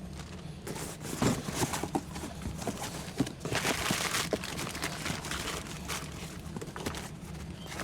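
Handling noise from a water heater's gas control valve and parts: light clicks and knocks, with a louder crinkling rustle about three and a half seconds in.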